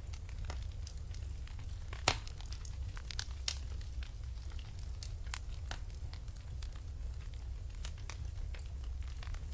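Wood fire burning in a fireplace: irregular crackles and pops over a low steady rumble, with one sharp, loud pop about two seconds in and another about a second and a half later.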